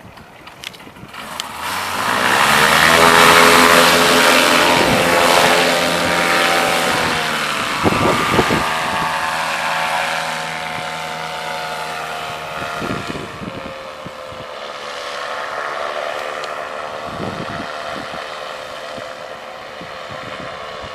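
Motor paraglider (paramotor) engine and propeller throttled up to full power for takeoff. The note rises about two seconds in, holds steady and loud, then drops a little in pitch and slowly fades.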